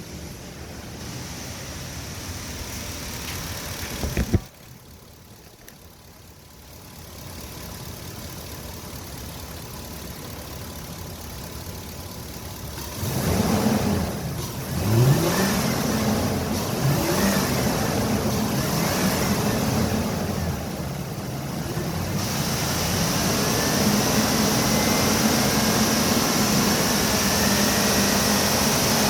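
Ford 5.4-litre V8 engine running on a test, with a sharp knock about four seconds in, after which the sound drops. Later the engine is revved up and down several times, then held at a steady, higher speed near the end.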